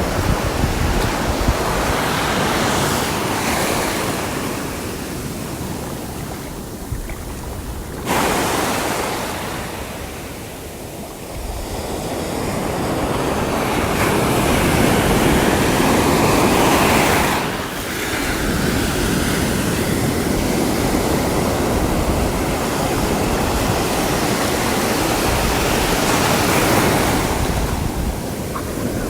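Sea waves breaking and washing on the shore, swelling and ebbing over several seconds, with a sudden surge about 8 seconds in and a loud wash that drops off abruptly later on. Some wind buffeting on the microphone.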